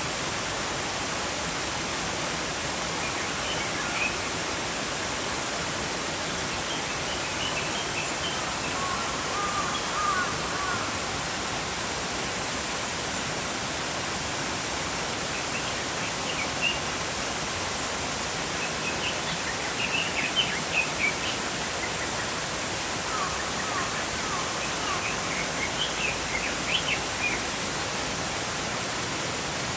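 Steady rushing of a small stream, with short runs of small-bird chirps and twitters every few seconds.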